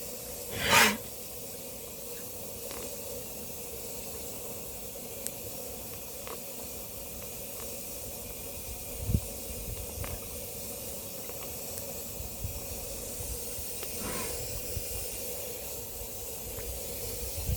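Steady hiss of outdoor ambience, with a short loud rushing burst about a second in, a fainter one near the end, and a few soft knocks in between.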